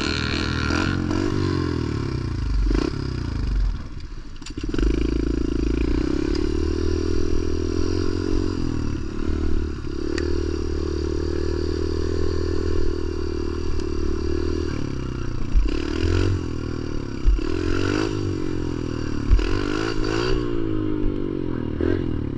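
Pit bike engine running under the rider, revving up and falling back again and again as the throttle is rolled on and off, with a short drop in revs about four seconds in and a run of quick rev rises near the end.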